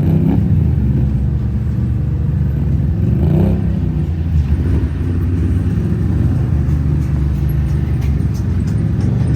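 Off-road vehicle engine running steadily at low revs, with a short rise in pitch about three seconds in.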